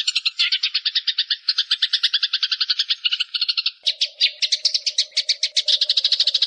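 Eurasian tree sparrows chattering as they fight: a fast, unbroken run of chirps, about ten a second. A little past halfway the pattern changes and a lower steady tone joins in.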